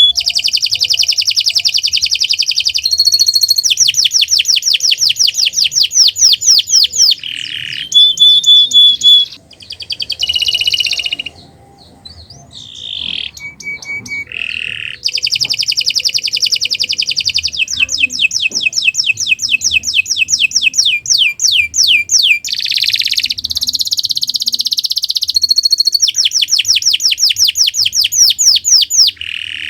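Domestic canary singing a long, continuous song of rapid trills and rolls, each phrase a fast run of repeated notes, with a short quieter break about halfway through.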